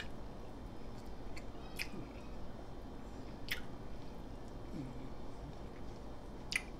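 Close-miked chewing and mouth sounds of a person eating a corned beef sandwich, with a few sharp clicks scattered through it.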